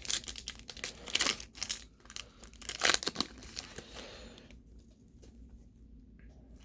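Panini Prizm basketball card pack wrapper being torn open and crinkled, crackling for about four seconds before the handling turns quiet.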